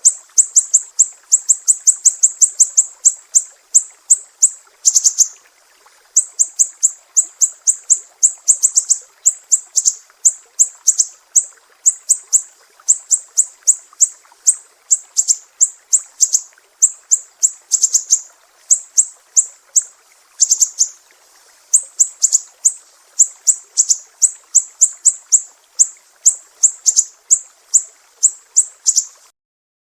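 Sumatran siri-siri bird singing: a fast, unbroken string of sharp, high chirps, several a second, with only a couple of brief pauses. It cuts off shortly before the end.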